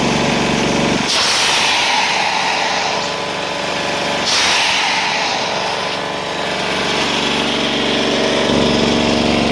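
Hydramaster Boxxer 421 truck-mount carpet cleaner running with a steady engine and vacuum drone. Two loud hissing rushes start about a second in and about four seconds in, as the cleaning wand pulls water from the carpet. The low engine tone drops under the hiss and comes back near the end.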